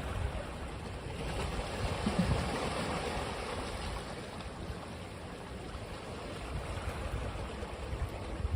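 Ocean waves on a beach: the surf swells about a second in, peaks around two to three seconds, then eases back to a steady wash.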